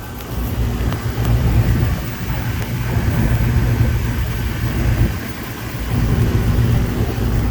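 Rooftop HVAC package unit running: a steady low fan-and-motor rumble with a hum, swelling and easing a little. The newly replaced blower belt runs without squealing.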